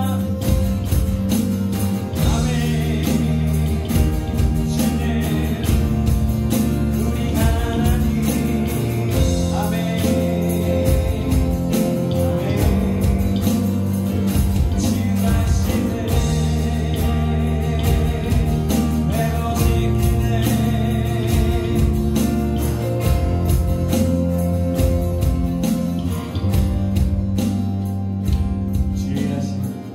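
A live worship band playing a gospel song, with electronic drums, bass guitar, keyboard and acoustic guitar under singing.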